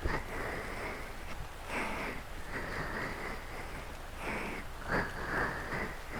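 Steady rain ambience under a run of soft swishes that come about every one to one and a half seconds, each lasting under half a second.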